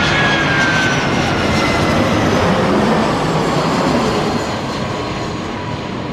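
Jet airliner's engines passing close by, a loud steady noise with a high whine that slowly falls in pitch.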